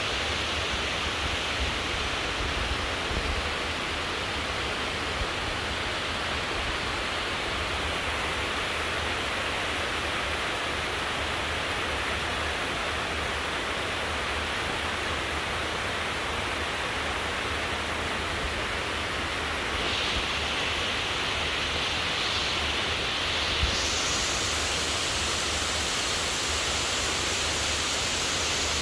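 Heavy rain pouring down steadily as a dense, even hiss, turning a little harsher and brighter about twenty seconds in.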